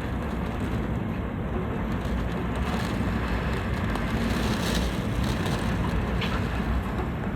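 Storm-force wind blowing hard and buffeting the microphone, a steady low rumbling roar with a few faint ticks over it.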